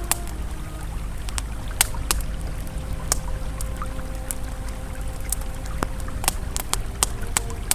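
Campfire crackling with sharp, irregular pops over the steady low rush of a flowing river, with soft sustained ambient music tones underneath.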